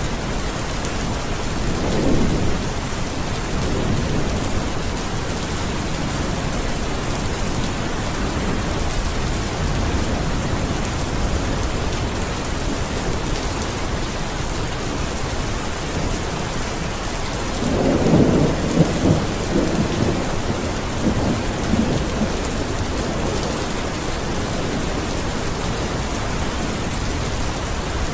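Steady rain falling, with a low rumble of thunder about two seconds in and a longer, louder rolling rumble about two-thirds of the way through.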